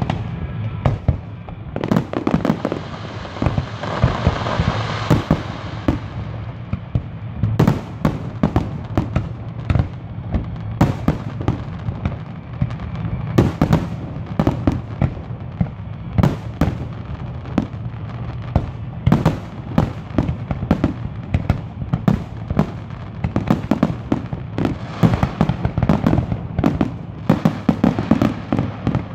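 Fireworks display: aerial shells bursting in a long, irregular run of bangs, at times several a second, over a steady low rumble. A stretch of hiss runs from about two to six seconds in.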